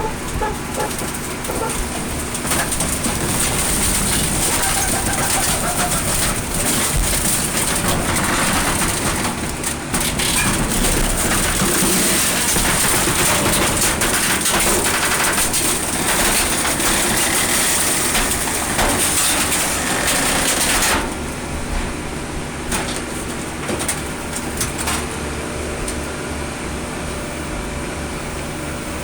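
Colmar P5 260 metal baler compressing a car body: the machine runs loudly with a steady high whine and crackling, crunching metal. About 21 seconds in the crushing noise stops suddenly, leaving the machine running more quietly with a few clanks.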